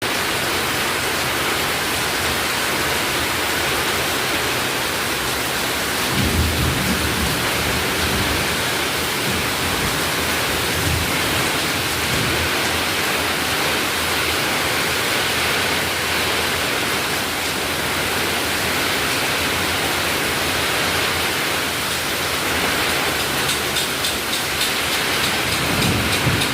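Strong wind rushing through the foliage of a large pucuk merah tree, a steady loud hiss, with gusts buffeting the microphone a few times, most strongly about six seconds in and near the end.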